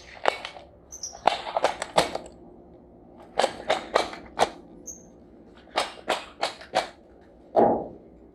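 Groups of sharp knocks and clatters, three or four in quick succession each time, with one duller thud near the end and a few short high chirps between them.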